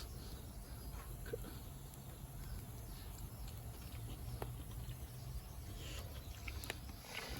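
Steady low rumble with scattered faint clicks and ticks.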